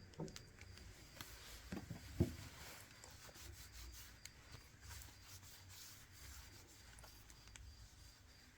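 Faint rubbing and handling noises from a smartphone being turned over and worked by hand, with a few light knocks in the first couple of seconds, the loudest a little after two seconds in.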